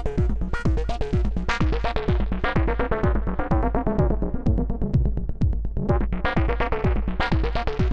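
Eowave Weather Drones 1.5 Eurorack synth voice playing a fast sequenced techno pattern of short, wave-folded notes over a steady kick drum. The tone goes duller about halfway through, then brightens again near the end as the fold and filter are swept.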